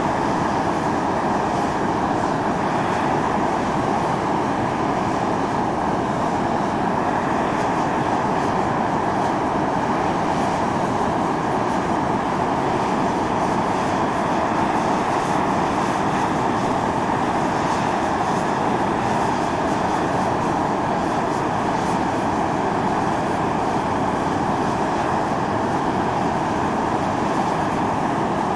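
Volcanic fumarole venting steam: a steady hissing rush that keeps an even level throughout.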